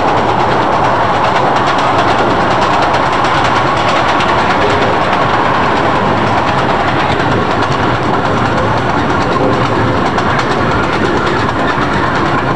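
Zoo train running along its track, heard from an open-sided passenger car: a loud, steady rumble and rattle of the cars' wheels on the rails, with faint rapid ticking.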